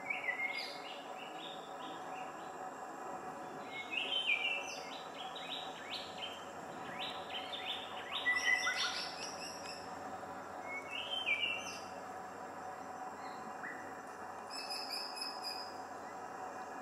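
Birds calling in about five short bursts of quick chirping notes, the busiest about halfway through, over a steady background hum.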